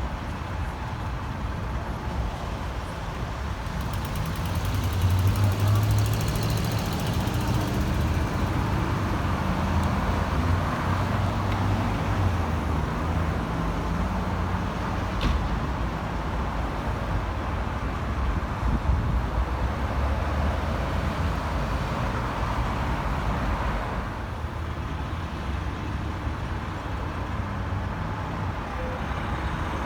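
Road traffic with a heavy diesel vehicle's engine running past, its low rumble loudest from about five seconds in.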